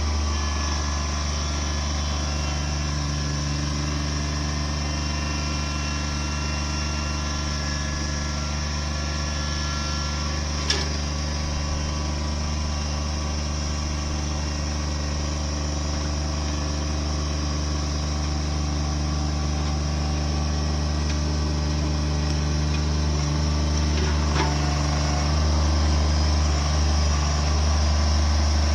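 A machine's engine running steadily with a low drone, getting a little louder in the last several seconds; one sharp click about eleven seconds in.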